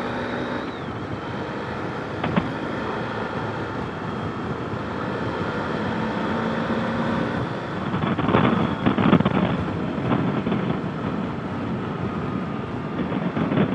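Motorcycle riding along at road speed, heard through a helmet-mounted intercom microphone: a steady rush of wind noise over a faint engine hum, growing louder for a couple of seconds about eight seconds in.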